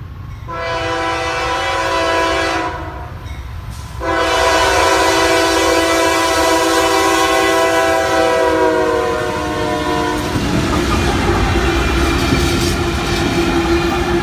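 Diesel freight locomotive air horn: a blast of about two seconds, then after a short break a long blast of about six seconds whose pitch drops slightly near its end. After it, the rumble of the passing train with a steady tone.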